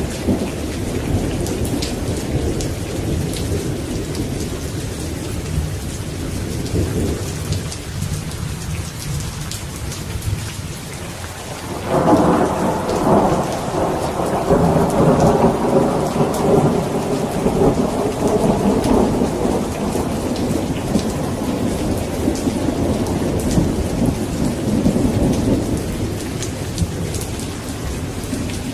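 Thunderstorm: steady rain falling, with low thunder rumbling. About twelve seconds in a loud thunderclap breaks in and rolls on for over ten seconds before fading.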